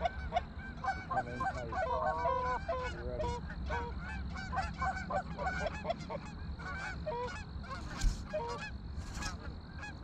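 Geese honking: many short, overlapping honks and clucks, with one sharp knock about eight seconds in.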